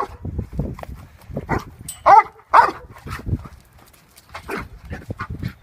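A dog barking a few times, the two loudest barks close together about two seconds in, with scattered low thumps.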